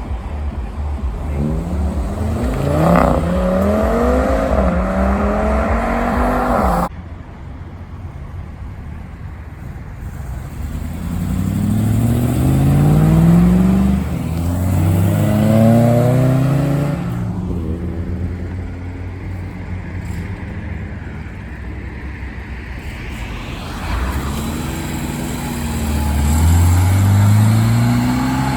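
Car engines accelerating away one after another, each pitch rising and stepping back as it changes gear. The sound cuts off abruptly about seven seconds in. A steady low rumble lies underneath throughout.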